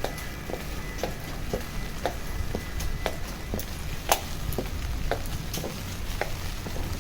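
Footsteps on wet pavement, about two steps a second, one step about four seconds in louder than the rest, over a low steady city rumble.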